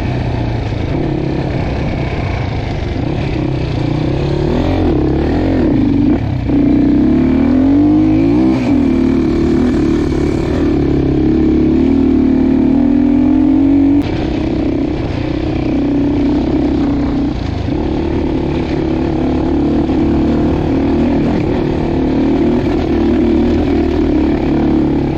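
Dirt bike engine revving up and easing off again and again under riding load, its pitch climbing and falling with the throttle; the sound drops abruptly a little past halfway through.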